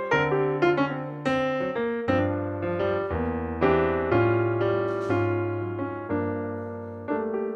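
Background piano music: notes struck and fading over a low bass line that changes about every second.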